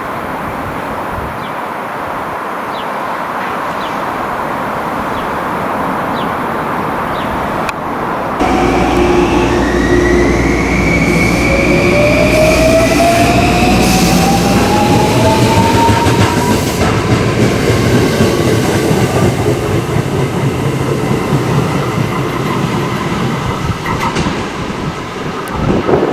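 Electric multiple-unit train pulling out of the station: a steady rolling rumble, then about eight seconds in a louder rumble of wheels on rail sets in, with the traction motor whine rising in pitch as the train accelerates.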